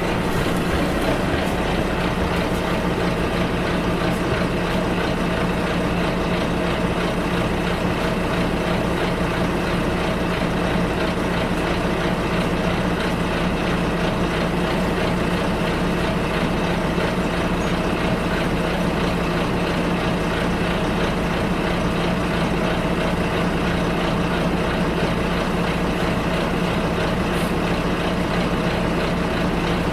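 Bus engine running steadily, heard from inside the passenger cabin: an even, unbroken hum with a steady low drone.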